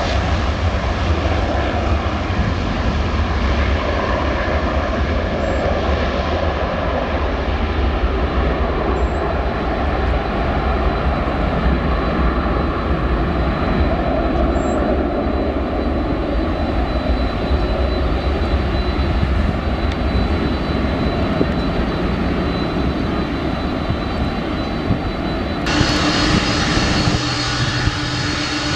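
Airliner engines running, a loud steady rumble and rush of noise that changes abruptly about 26 seconds in.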